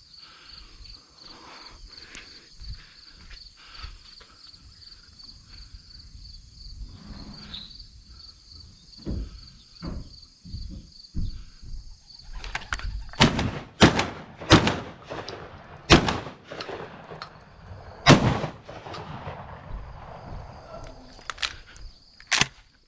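Insects chirring steadily, then, from about halfway through, a volley of shotgun shots: several loud cracks with echoing tails over about ten seconds, the last one shortly before the end.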